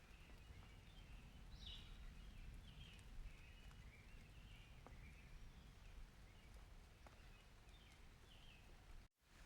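Faint outdoor rain-and-thunder ambience: a steady low rumble with scattered faint high chirps and a few light ticks, cutting out completely for a moment near the end.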